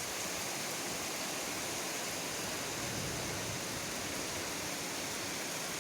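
Steady, even downpour of rain: a continuous hiss of rain falling on the garden.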